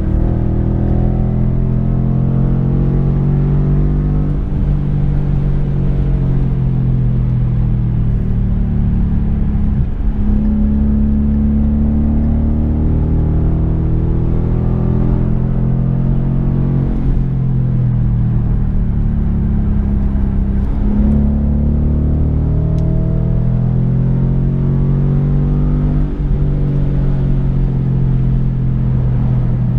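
2015 Ford Mustang GT's 5.0-litre V8 running through an MBRP race cat-back exhaust under hard acceleration at highway speed. The engine note rises and falls several times, with short breaks between.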